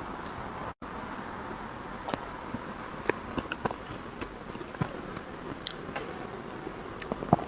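Scattered soft clicks and smacks of cake being eaten close to the microphone, a few per second at irregular moments, over a steady background hiss.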